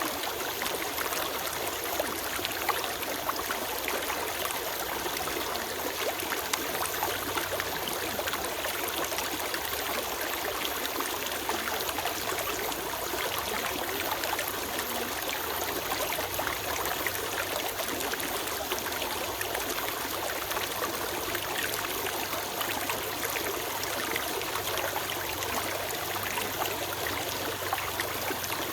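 Small forest stream flowing steadily over stones, with a constant trickling and babbling of water.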